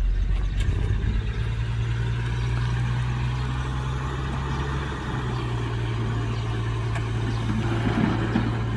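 Heavy diesel engine of construction machinery running at a steady pitch.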